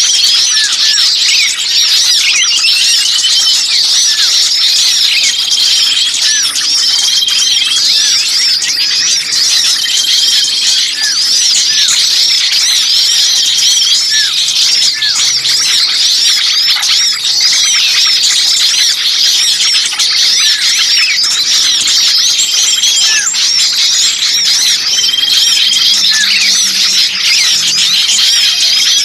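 Many small songbirds chirping and twittering at once in a dense, agitated chorus of rapid high notes, with short level whistles cutting in every few seconds. It is a bird-luring recording of small birds in alarm, built around the distress calls of a caught bird.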